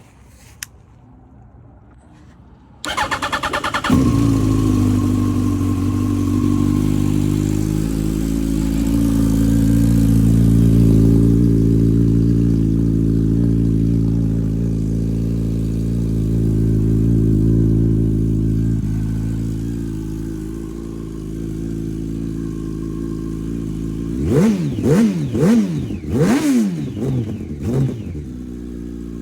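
2005 Yamaha R1's inline-four engine cranked on the electric starter for about a second, catching and settling into a steady idle. Near the end it is revved in several quick blips.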